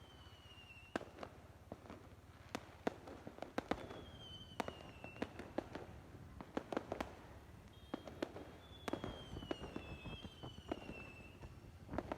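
Fireworks going off: a string of sharp, irregularly spaced bangs and crackles, with several whistles that fall in pitch, two of them overlapping near the end.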